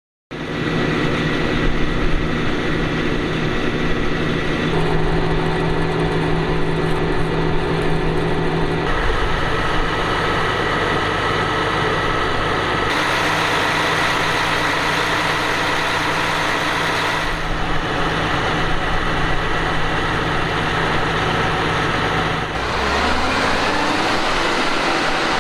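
Claas Jaguar 870 forage harvester running, a steady engine drone with a high whine, its tone changing abruptly several times; near the end the engine pitch rises.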